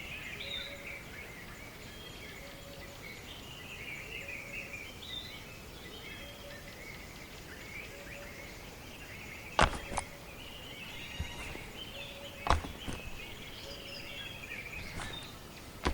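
Birds chirping and singing in the background, with a few sharp clicks or knocks, a pair about ten seconds in and another about two and a half seconds later.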